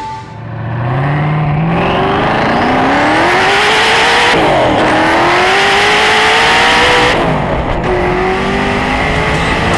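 Hennessey Venom GT's twin-turbo V8 accelerating flat out, its pitch climbing steadily. It shifts up about four and a half seconds in and again about seven seconds in, each time dropping in pitch and then climbing again.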